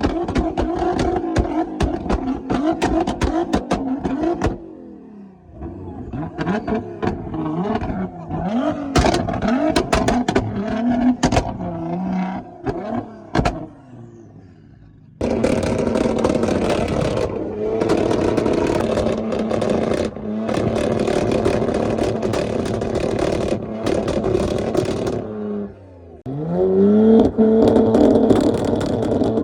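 Performance car engines revving hard and held against a 2-step launch-control limiter, with a rapid crackling from the exhaust while they are held. There are several bursts: blips that rise and fall, a long held stretch, then a quick rising rev into another hold near the end.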